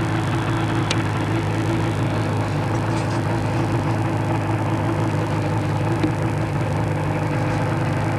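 Motorcycle engine running steadily at a low, even pitch, heard from the bike itself, with no revving.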